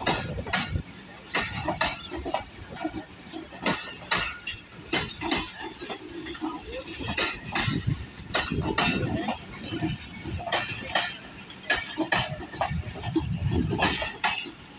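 Passenger coaches of the Allama Iqbal Express rolling past close by, the wheels clattering over the rail joints with many irregular metallic clanks and clinks.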